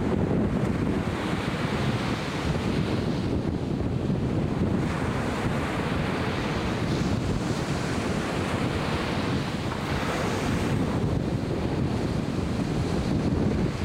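Ocean surf breaking and washing on a beach, the hiss swelling and easing several times, over a constant low rumble of wind buffeting the microphone.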